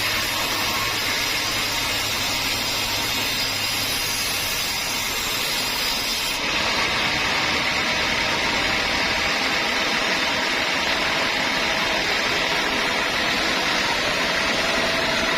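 Homemade bandsaw mill running steadily, a continuous machine noise that changes character abruptly about six seconds in and becomes a little louder.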